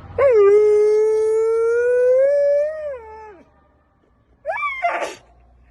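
A dog howling: one long, steady howl of about three seconds that slides down at its end, followed near the end by a short rising yelp.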